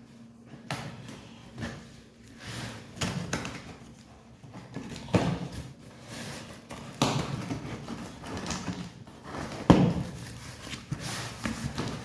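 Cardboard shipping box being opened and handled: packaging rustling and scraping in fits and starts, with a few sharp knocks and thumps.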